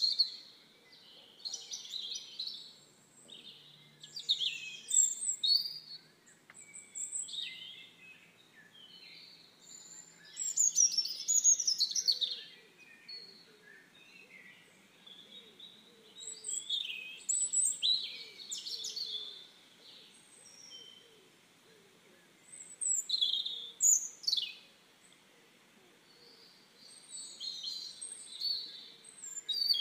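Songbirds singing: bursts of quick, high chirps and trills every second or two, with short gaps between, and a sharp falling whistle near the end.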